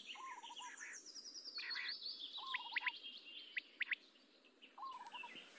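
Birds chirping faintly in the background: a few short arched calls repeated several times, with quick sharp high notes in between.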